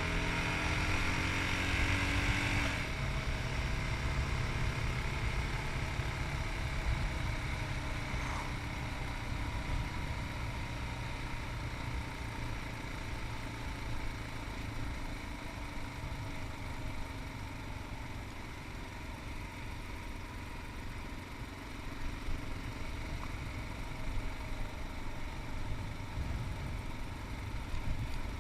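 Yamaha MT-03 single-cylinder 660cc engine running under way, rising in pitch as the bike accelerates for the first few seconds, then dropping off abruptly as the throttle is eased. It then runs on steadily under a rush of wind and road noise.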